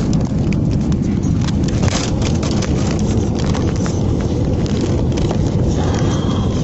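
Loud, steady rumble of an airliner heard inside the passenger cabin, with rapid uneven rattling and clicking over it throughout.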